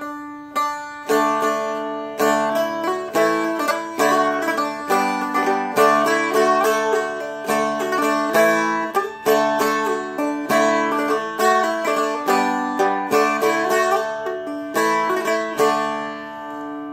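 Seagull Merlin M4 strumstick played with a full strum, mostly downstrokes: a melody line over ringing drone strings, with a run of strums at an uneven pace. The last chord rings out near the end.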